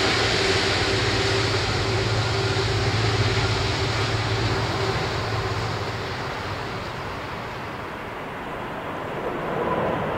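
Jet engine noise of an Airbus A330-243 airliner: a dense rush with a steady low hum, dying away over several seconds as the high end and the hum fade, then swelling slightly near the end.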